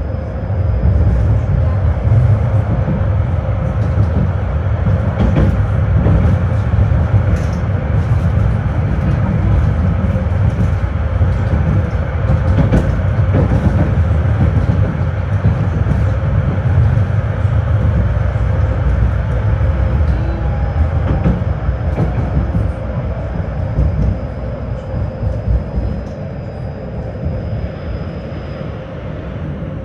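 Tram running along its track, heard from inside the car: a steady heavy rumble of wheels on rails with scattered clicks and rattles. The rumble eases somewhat near the end.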